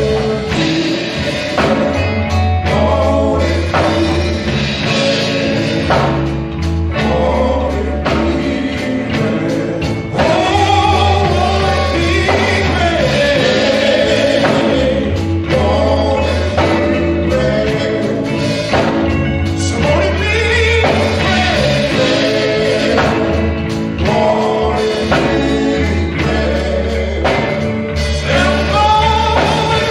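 Gospel song: voices singing over a bass line and drums with a steady beat.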